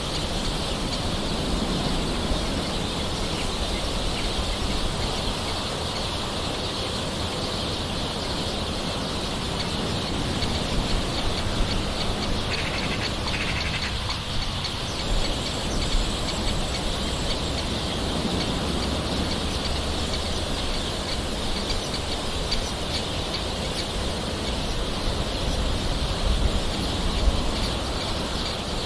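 Steady soft rain with birds calling in the background, a few louder drop ticks here and there.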